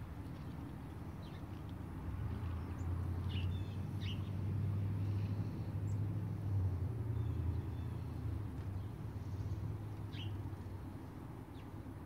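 Low engine hum that swells over a few seconds and then eases off, with a few short bird chirps over it.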